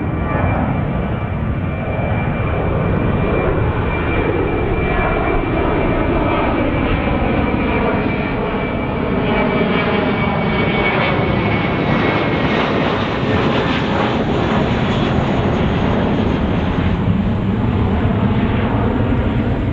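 Jet airliner departing at takeoff thrust: a loud, steady engine rumble with a thin high whine that fades about two-thirds of the way through, its tone slowly shifting as the aircraft passes.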